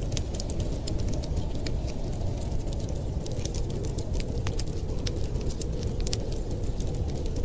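Crackling wood fire: frequent irregular sharp pops and snaps over a steady low rumble.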